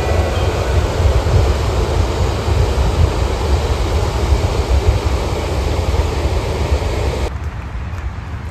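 A passing train running by with a steady rumbling, rushing noise, over wind buffeting the microphone. About seven seconds in the rushing noise cuts off abruptly, leaving the low wind rumble.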